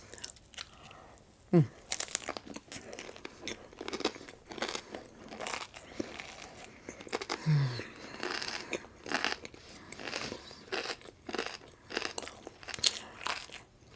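Close-miked eating: crisp breakfast food being bitten and crunched with irregular chewing, and a couple of short hummed "mm" sounds.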